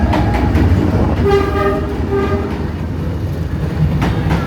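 Train running with a steady low rumble and some clatter from the wheels on the rails, plus a few short pitched tones partway through.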